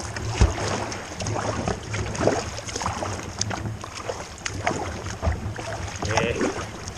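Kayak paddle strokes splashing and water rushing against the hull as a kayak is paddled hard into a strong river current. Irregular splashes come every second or two over a steady low rumble of wind on the microphone.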